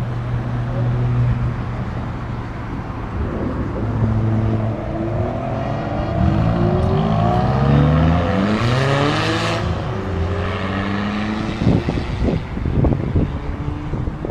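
Car engines at a meet roll out: a steady idle, then several cars accelerating away, their exhaust notes rising and falling in pitch and overlapping. The loudest pass comes about nine seconds in.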